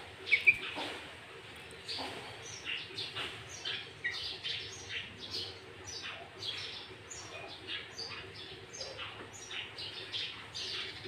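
Sooty-headed bulbul (kutilang) singing a fast, continuous run of short chirping notes, with two loud notes about half a second in.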